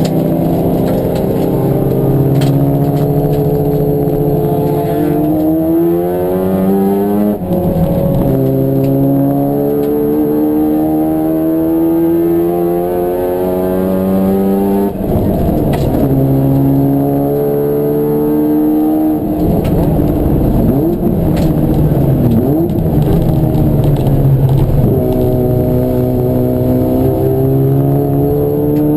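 Race car engine accelerating hard, its pitch climbing steadily and then dropping sharply at each upshift, about three times; a rougher stretch with the revs moving up and down comes a little after the middle, then it climbs again.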